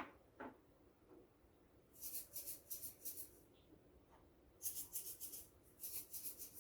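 Montessori sound cylinders being shaken, their contents rattling in quick, even shakes: three bursts of about a second each, the first about two seconds in. Two light knocks at the start.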